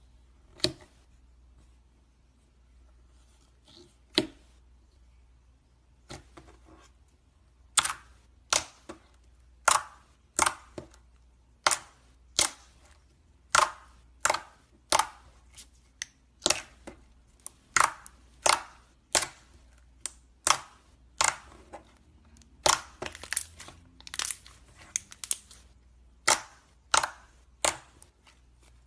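Slime being pressed and worked by hand, giving a string of sharp pops and clicks as air pockets burst. The pops are few at first and come about one or two a second from a few seconds in.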